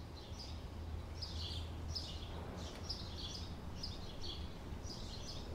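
A small bird chirping faintly over and over, a few short high chirps a second, over a low steady hum.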